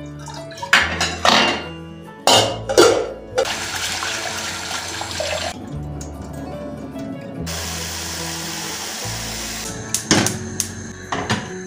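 Background music, with water running from a kitchen tap twice, a couple of seconds each time, and a few sharp knocks of kitchen utensils near the start and near the end.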